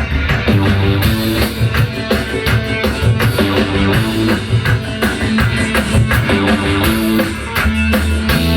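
Live band playing an instrumental passage of a dance-punk song: guitar and bass over a steady drum beat, with no singing.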